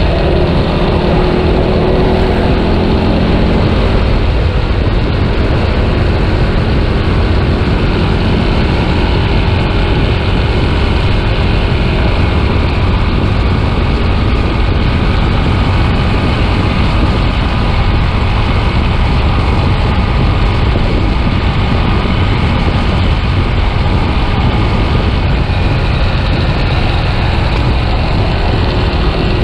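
Yamaha Scorpio single-cylinder motorcycle engine running on the move, under a heavy rush of wind on the microphone; the engine's tone stands out most in the first few seconds and again near the end.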